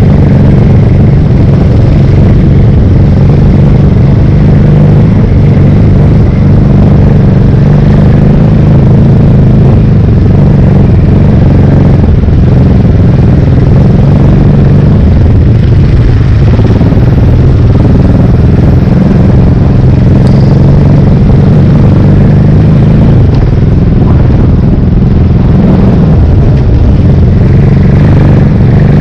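Big single-cylinder four-stroke enduro motorcycle engine heard from on board while riding a dirt trail. It runs loud and steady at a fairly low pitch, and the throttle changes a little now and then.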